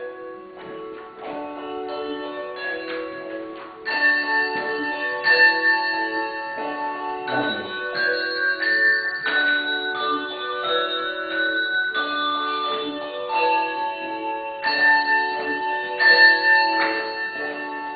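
A handbell choir ringing a slow, flowing piece, many bells struck in turn with their tones overlapping and ringing on. It starts softly and grows fuller about four seconds in.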